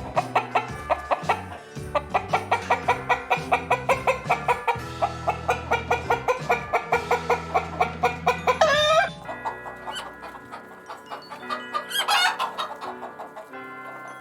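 Upbeat background music with a quick, even plucked beat, and two short wavering chicken calls, about nine and twelve seconds in.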